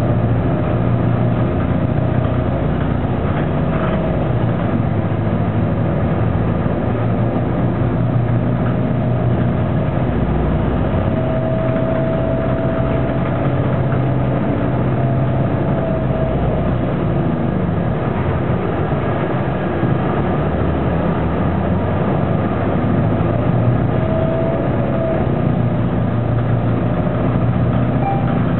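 A Neoplan AN460 articulated bus's Detroit Diesel Series 50 engine running steadily, heard from inside the passenger cabin as a constant deep drone. A thin whine rises over it and fades, most clearly about a third of the way through and again near the end.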